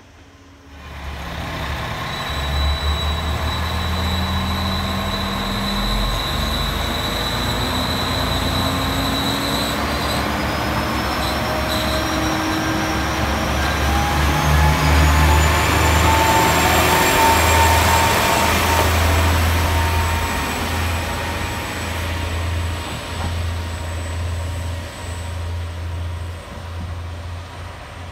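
Red JR West train moving past the platform and away, its running noise with a low hum and several tones rising slowly in pitch as it gathers speed. It is loudest in the middle, then fades as it draws off.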